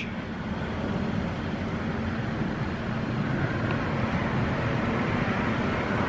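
Car running at low speed as it pulls into a car wash bay: a steady low rumble with a light hiss that builds slightly toward the end.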